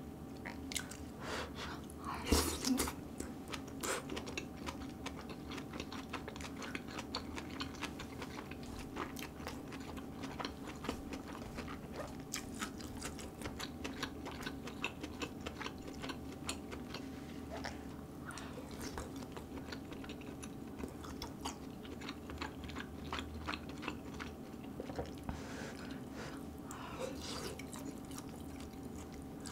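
Close-miked chewing of grilled marinated duck ribs: many small wet clicks and mouth sounds, with a louder clatter about two seconds in. A steady low hum runs underneath.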